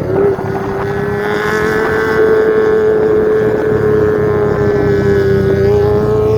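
Kawasaki ZX25R inline-four engine running through a Yakuza Undertail aftermarket exhaust, holding a steady, loud exhaust note that dips slightly in pitch about five seconds in.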